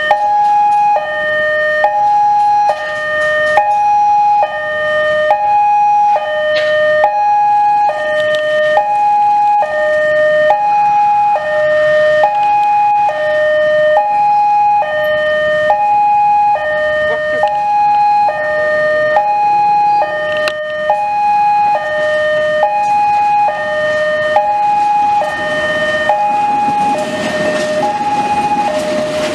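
Two-tone electronic warning alarm sounding continuously, alternating high and low notes with each tone lasting a little under a second. Near the end, the low rumble of a diesel locomotive swells up beneath it.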